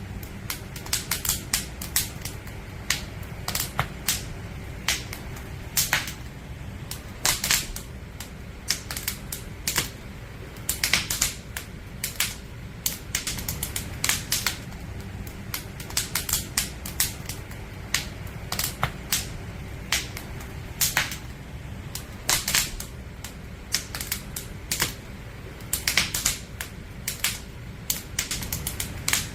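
Firewood crackling and popping in a campfire: irregular sharp snaps, several a second and some louder than others, over a steady low rumble of the burning fire.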